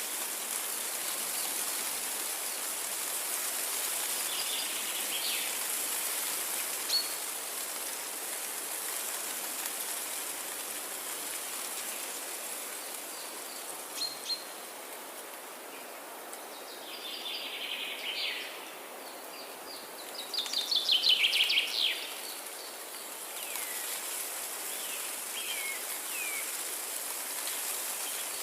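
Forest ambience: scattered songbird chirps over a steady background hiss. A louder run of rapid bird song comes about two-thirds of the way through, and a few short falling chirps follow near the end.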